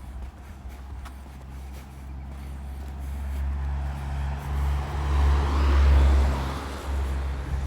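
A car driving past, its engine and tyre noise growing louder to a peak about six seconds in, then fading.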